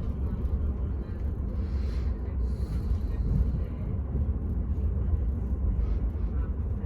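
Steady low rumble of a diesel-hauled Enterprise train.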